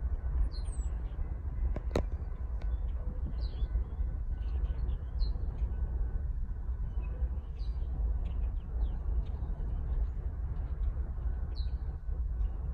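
Small birds chirping in short, scattered calls over a steady low rumble, with one sharp click about two seconds in.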